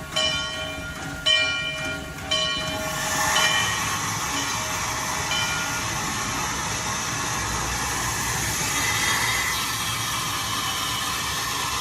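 Steam locomotive bell rung three times, about a second apart, followed by a steady hiss of escaping steam from the locomotive.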